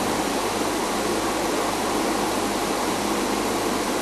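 Steady, even hiss with a faint low hum underneath; no distinct calls or knocks.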